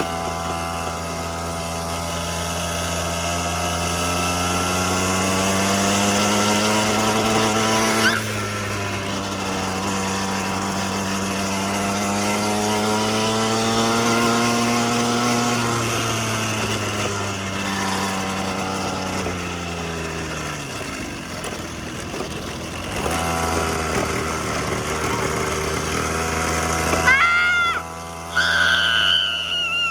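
Small petrol engine of a children's quad bike running under way, its note rising and falling slowly as it speeds up and eases off, dropping away about two-thirds through before picking up again. A high-pitched voice cries out near the end.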